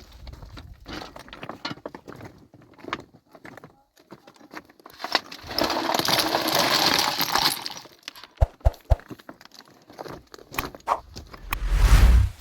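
Stones knocking and clattering against each other, with a dense rush of clatter lasting a few seconds in the middle, like rubble being poured or shifted, a few sharp knocks after it and a heavy thud near the end.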